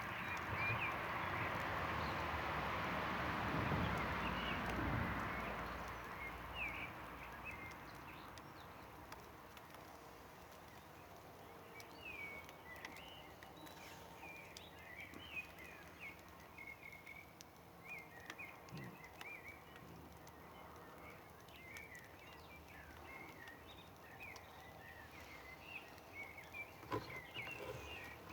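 A broad rushing noise swells and fades over the first few seconds. Then small birds chirp again and again over a quiet outdoor background.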